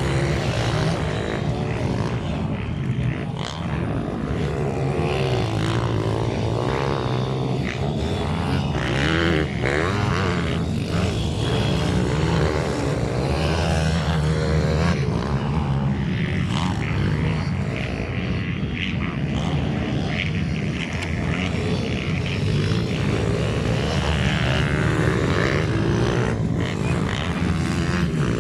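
Minibike engines racing, a continuous buzz that keeps rising and falling in pitch as the riders work the throttles.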